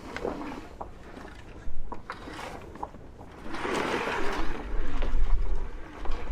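Gear being handled on a sailboat's deck while a sail is taken down: scattered clicks and knocks, a rustling burst about three and a half seconds in, and a low wind rumble on the microphone in the second half.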